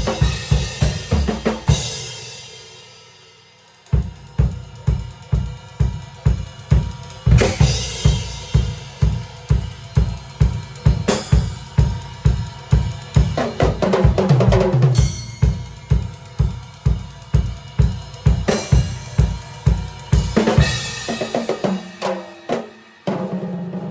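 Drum kit played: after the ringing dies away for about two seconds, a steady beat of bass drum and snare hits starts again, with crash cymbal hits every few seconds and a busier fill about two thirds of the way through.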